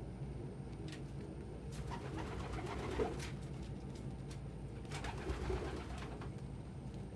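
Domestic pigeons cooing in two bouts, about two seconds in and again about five seconds in.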